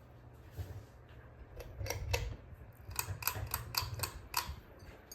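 A series of irregular light clicks and taps, bunched in the middle, over a low uneven rumble.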